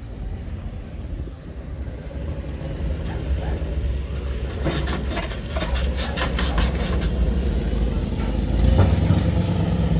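Modified car's engine running with a steady low rumble, getting louder near the end.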